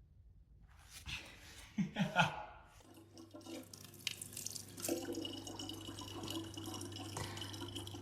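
Water running and dripping, a steady hiss with a hum under it, after a few short sounds about two seconds in.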